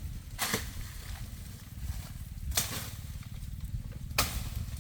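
Three sharp chopping blows of a foice (billhook) striking dry wood, about a second and a half to two seconds apart.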